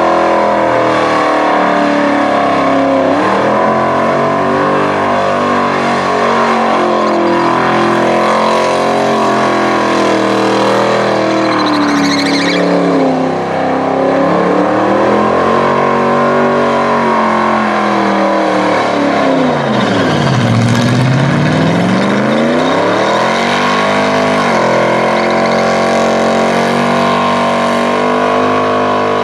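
Holden farm ute's engine held at high revs through a burnout, the revs wavering up and down, dropping sharply about two-thirds of the way through and climbing straight back.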